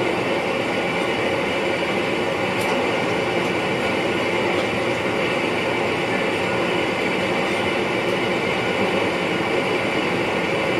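Steady running noise heard inside the cab of an NS VIRM double-deck electric train under way: wheels on rails with a faint steady hum, and one faint click a few seconds in.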